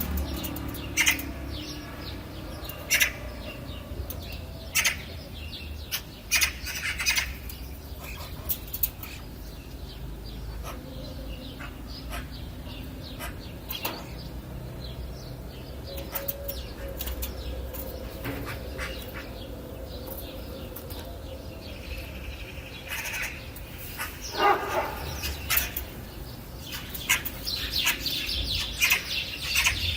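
Wild birds chirping: scattered short calls and sharp notes over a low steady rumble, turning into a busier run of high chirps near the end.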